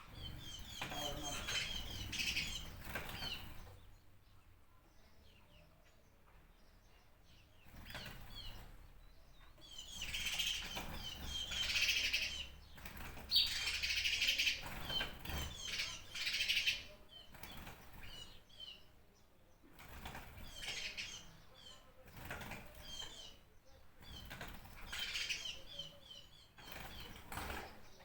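Small birds chirping and twittering in bouts of a few seconds, each bout a dense run of quick high notes, with quieter pauses between bouts.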